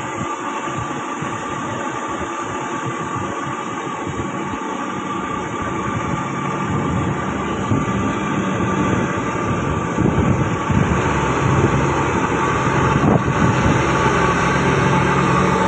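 Heavy diesel ore-haulage truck running, a steady mechanical drone that grows louder in the second half.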